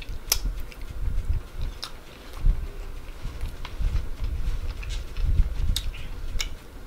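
A person chewing a mouthful of cheesy noodles close to the microphone: uneven soft low thumps of the jaw, with a few sharp wet mouth clicks.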